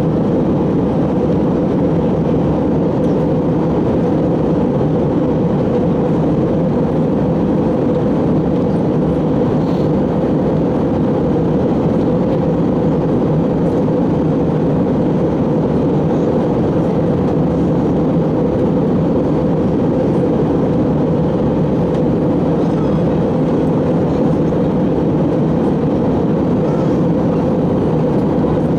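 Steady cabin noise inside an Airbus A321: an even rushing hum of engines and airflow that stays at one level throughout.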